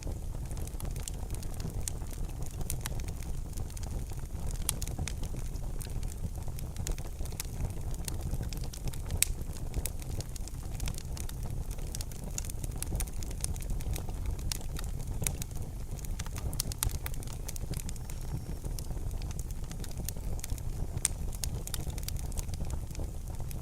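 Wood fire crackling in a fireplace: irregular sharp pops and snaps over a low, steady rumble of burning, with a louder pop about nine seconds in.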